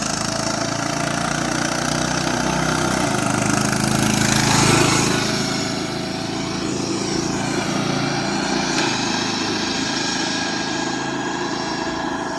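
Riding lawnmower engine running at high speed as the souped-up mower is driven, its pitch wavering slightly, growing louder about four to five seconds in as it comes closest.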